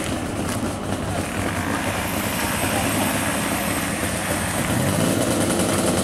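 Velorex three-wheeler's Jawa two-stroke engine running, rising in pitch about four seconds in as it revs, and getting louder near the end.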